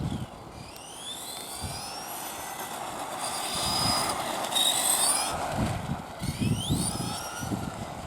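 Radio-controlled Tamiya model truck's electric motor and gearing whining, rising in pitch as it speeds up about a second in and again near six seconds, with a steady high whine in between. Low thumps run underneath.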